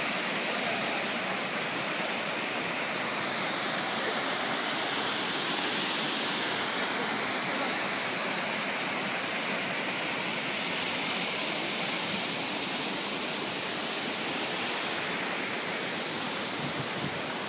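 Waterfall rushing, a steady loud wash of falling water that swells a little now and then.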